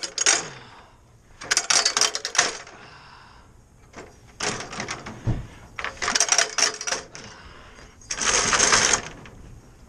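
Several bursts of metallic clinking and clattering as objects are handled, with a longer, steadier rushing noise about eight seconds in.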